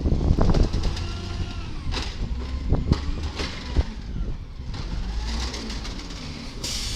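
Garbage truck engine running with a steady low rumble, with several sharp clanks and knocks about half a second in and again between two and four seconds, and a short burst of hiss near the end.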